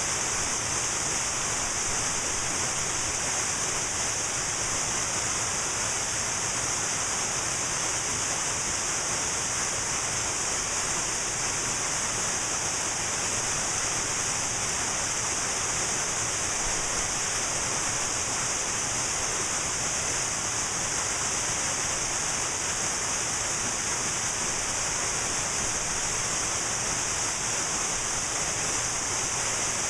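Cascading waterfall: a steady, unbroken rush of falling water with a strong hiss.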